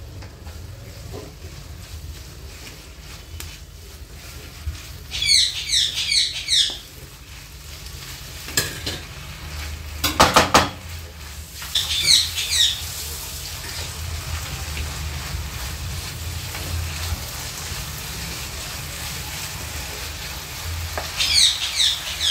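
A spiced shredded cabbage and onion filling, wet with chicken stock, sizzles steadily in a nonstick frying pan while a spatula stirs and scrapes it. The spatula knocks against the pan a few times about ten seconds in. A bird chirps in quick bursts three times.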